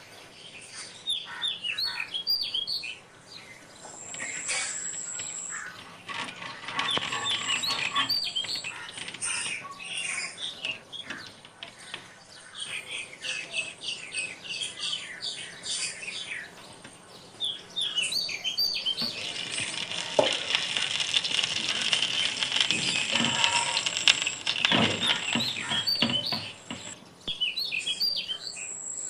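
Small birds chirping and calling over and over, short high notes in quick runs, with a steady hiss rising in for several seconds after the midpoint.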